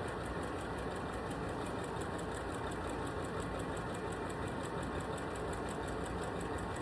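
Sewing machine running steadily, its needle stitching quilting lines at a fast, even rhythm without stopping.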